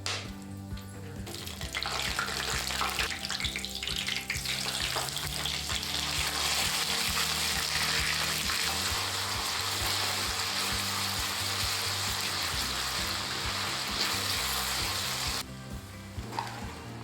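Food sizzling and frying in hot oil in a pan: a loud, even sizzle that starts about two seconds in and cuts off abruptly near the end.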